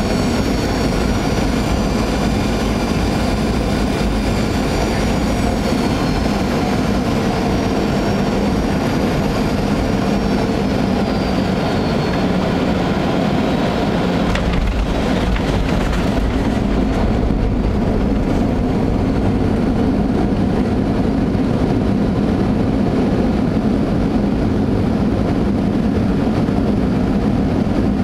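Boeing airliner's jet engines and airframe heard from the cabin during landing: the engine whine glides down in pitch over the first dozen seconds, a few knocks come about halfway through as the wheels touch down, then a steady low rumble of the rollout.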